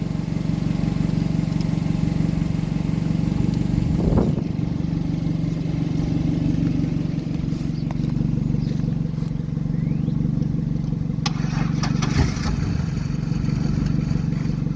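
A car engine idling steadily, with a short knock about four seconds in and some clattering near the end.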